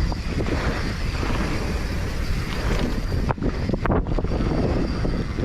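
Mountain bike riding a dirt trail: wind rushing over the camera microphone along with tyre and bike noise, and a couple of sharp knocks a little past halfway.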